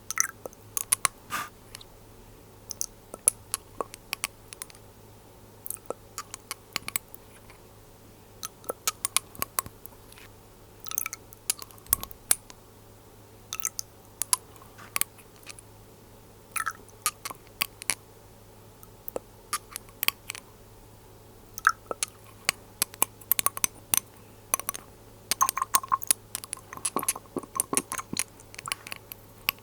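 Glass dropper bottles and their lids handled close to the microphone: irregular sharp clicks and taps of glass, some in quick clusters, over a faint steady hum.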